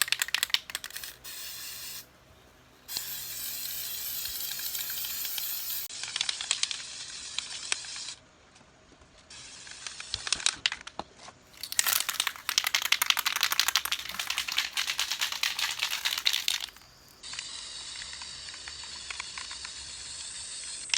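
Aerosol gasket sealant being sprayed onto a new cylinder head gasket: several long bursts of steady hiss from the spray can, a few seconds each.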